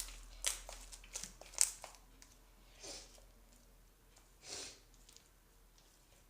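Clear slime being kneaded and stretched by hand. Several short, sharp crackles in the first two seconds, then two softer, longer sounds.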